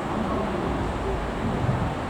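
Steady low rumble at the railway line, with wind buffeting the microphone.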